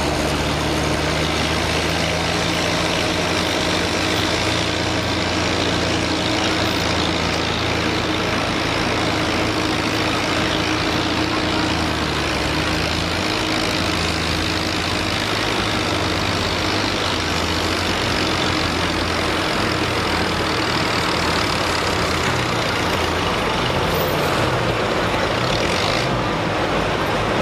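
Pulling tractor's engine running hard and loud under load through a hook on the weight-transfer sled. Its pitch steps up and down several times over the pull.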